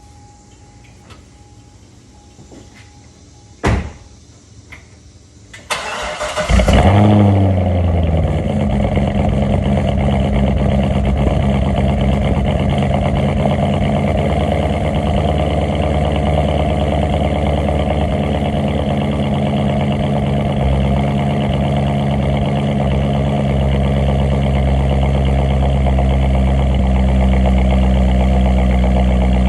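Grand Sport's engine cold-starting: a faint repeating electronic chime and a sharp click, then the starter cranks for about a second. The engine catches with a rev flare, settles over the next couple of seconds, and runs at a steady high cold idle.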